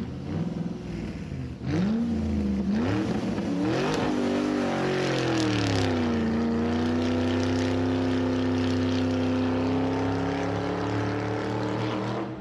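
An engine revving up and down several times, then holding a steady speed from about six seconds in, dropping away near the end.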